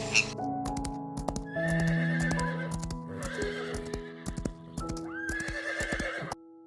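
A horse whinnying three times over the clip-clop of hooves, with soft background music; the horse sounds cut off suddenly near the end.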